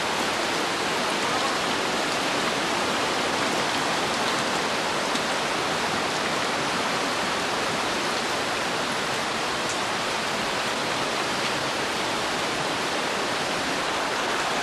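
Steady rushing of water, an even wash of noise with no breaks.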